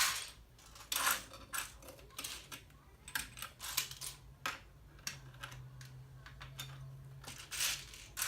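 Loose plastic LEGO pieces clicking and rattling against each other in irregular bursts as a hand rummages through them.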